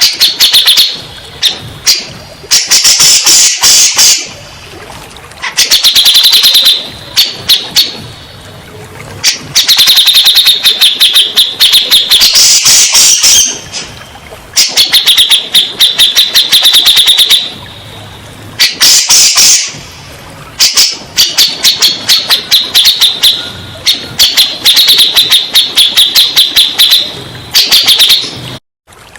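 Grey-cheeked bulbul (cucak jenggot) song: loud phrases of rapid, chattering repeated notes, each lasting a second or two, coming again and again after short pauses.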